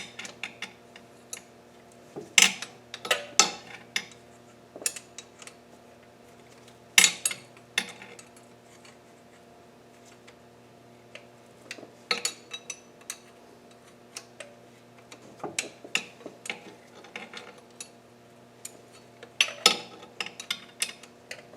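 Small metal clicks and clinks of a light hand wrench working on intake manifold bolts as they are snugged down by hand, coming in irregular clusters over a faint steady hum.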